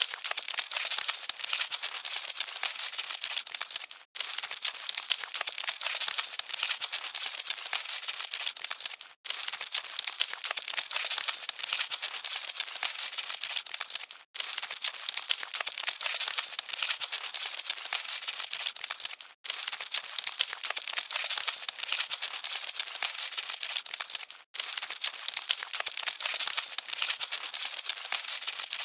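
Dense, dry crackling rustle billed as cockroaches scuttling, thin and high-pitched. It cuts out briefly about every five seconds, a short recording looped.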